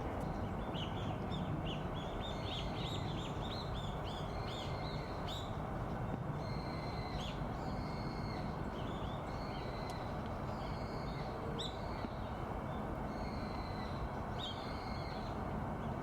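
Wild birds calling repeatedly. A quick run of short, high, falling calls comes in the first few seconds, then longer, level high notes at intervals, over a steady low background noise.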